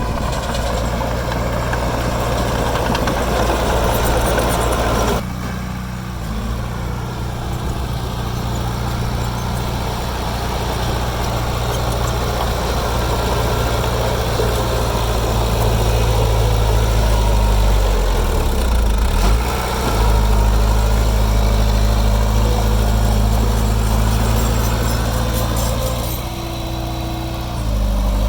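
Heavy earthmoving machine's diesel engine running steadily. The sound changes abruptly about five seconds in, and the engine note dips briefly twice later on.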